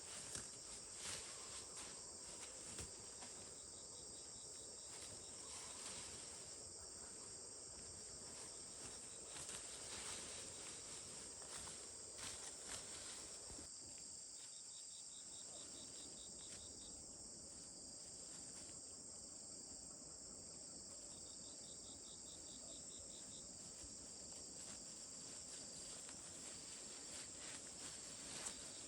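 Insects chirping in a steady, faint high chorus. Short cricket-like pulsed trills come in a few times, and there are a few soft clicks.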